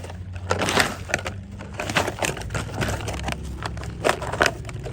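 Dry leaf litter and twigs crackling and snapping in irregular sharp clicks, over a low steady hum.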